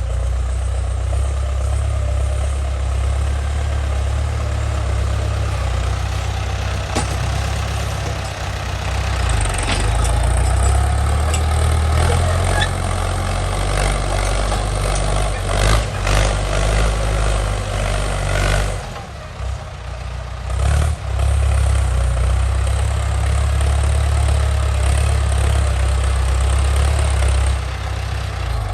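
Ford 6600 tractor's three-cylinder diesel engine running steadily while plowing a wet rice field, with a few sharp knocks around the middle. The engine sound drops away briefly about two-thirds of the way through, then comes back.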